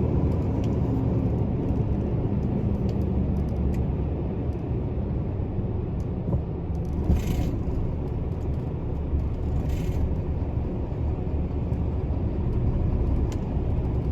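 Heavy truck running, heard from inside the cab: a steady low engine and road rumble, with two brief hisses about seven and ten seconds in.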